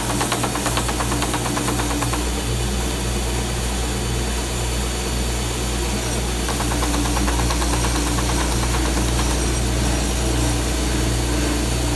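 A stationary sander and a shop dust vacuum running steadily together, with a wooden box body being sanded back and forth against the abrasive.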